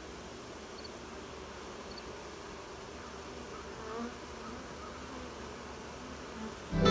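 Honeybees buzzing around a crowded hive: a steady, low hum of many bees in flight, with a single bee now and then buzzing past louder and close.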